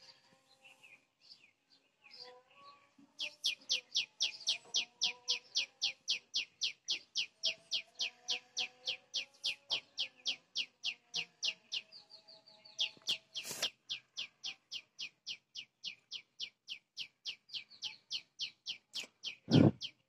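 A bird chirping over and over in an even rhythm, about three high chirps a second, starting a few seconds in. A sharp click comes partway through, and a loud thump just before the end.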